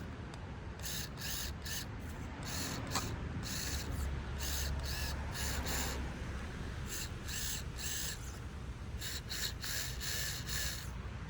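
Axial SCX24 micro RC crawler's small electric motor and gears whirring in repeated short throttle bursts, grouped several to a second, as it strains to climb while stuck.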